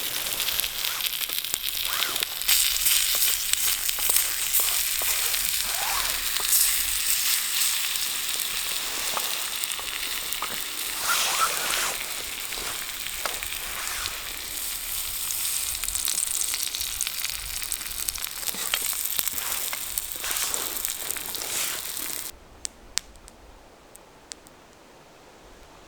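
Food sizzling and frying in a pan over a campfire, a dense hiss full of small crackles and pops. It cuts off suddenly near the end, leaving a quiet background with a few sharp clicks.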